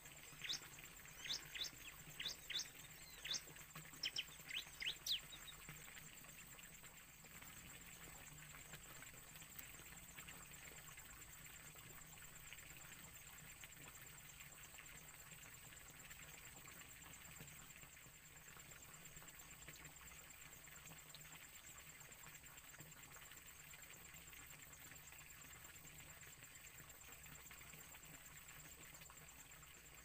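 Bird chirps: a run of sharp, quickly falling notes, about two a second, that stops about five seconds in. After that only faint outdoor ambience remains, with a steady high-pitched tone.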